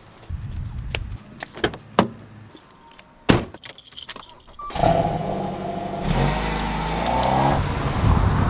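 Small clicks and one sharp thump, then a Dodge Dart sedan's engine starts about five seconds in and the car pulls away, the engine pitch rising in several steps as it accelerates.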